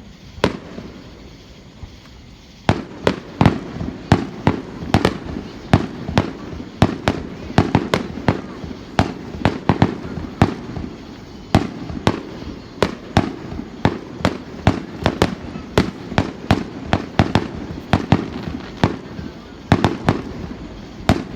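Fireworks display: one bang about half a second in, then from about three seconds on a rapid barrage of firework shell bursts, several bangs a second without let-up.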